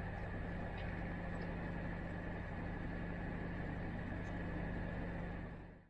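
A boat's engine running steadily with an even hum, fading out at the very end.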